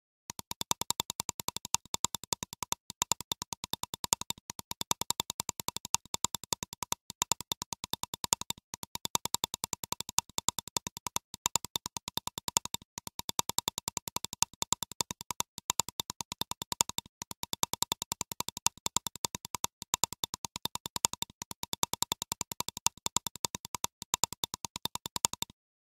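A fast, even train of sharp clicks, several a second, in runs broken by short pauses about every second and a half, with a steady high ringing tone under them.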